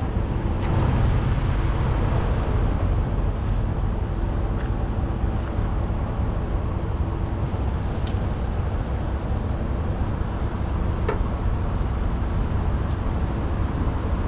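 Steady low rumble of road-vehicle noise, with a few faint clicks through it.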